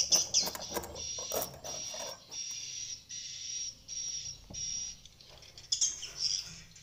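Swiftlets calling: a run of evenly repeated high chirps, each about half a second long, with rapid clicking over the first two seconds and a louder burst of chirps near the end.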